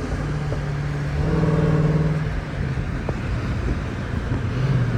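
Jeep Grand Cherokee Trackhawk's supercharged V8 droning steadily at a light cruise, swelling briefly about a second in, over steady tyre and road hiss on a wet road.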